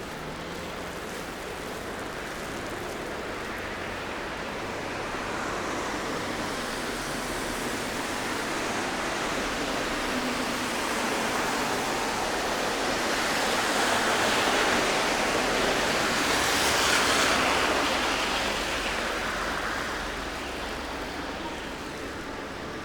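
Traffic tyre hiss on a snowy city street. The noise builds slowly, peaks with a sharp hiss about three-quarters of the way through, then fades as a vehicle passes.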